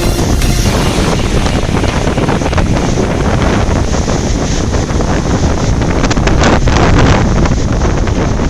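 Strong wind buffeting the microphone, a loud, steady rumbling noise.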